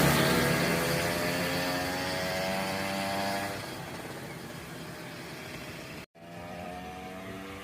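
Tuned scooter engine revving at speed, its pitch slowly climbing while it grows fainter over the first few seconds. The sound drops out abruptly for an instant about six seconds in, then the engine carries on at a lower, steady level.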